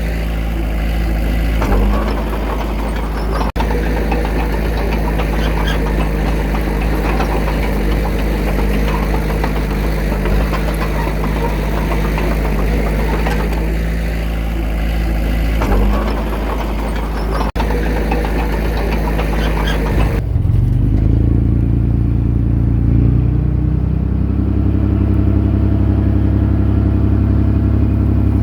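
Heavy earthmoving machine's diesel engine running steadily, with mechanical clatter over the engine note. About 20 seconds in, the sound changes abruptly to a deeper, smoother engine drone with far less clatter.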